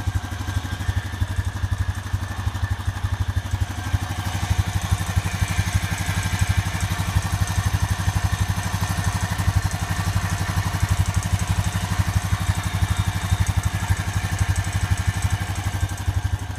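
Honda Rancher 420 ATV's single-cylinder four-stroke engine idling with a steady, even beat, running on freshly changed Honda GN4 10W-40 oil.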